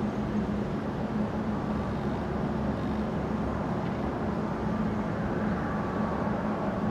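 Boeing 767 wide-body jet on final approach, its engines a steady drone with a constant low hum.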